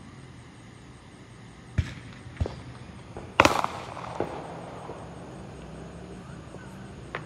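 Aerial fireworks going off: two sharp bangs about two seconds in, then the loudest burst a second later, trailing into a run of smaller pops, and one faint bang near the end.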